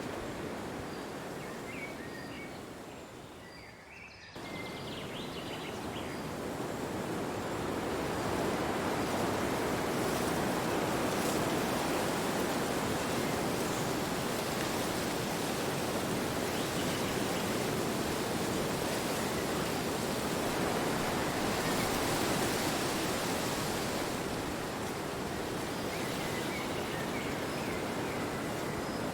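Wind blowing as a steady rushing noise. It dies away over the first few seconds, returns abruptly, swells up and then holds steady.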